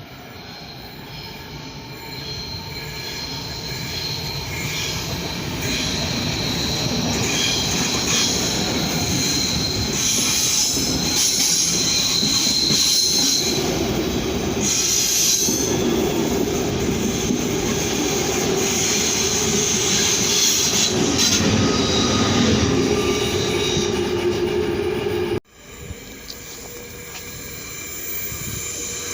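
A train running through the station, its wheels squealing on the rails with high, shifting squeals over the rumble, growing louder over the first several seconds. The sound cuts off abruptly near the end, and another train's rumble starts to build.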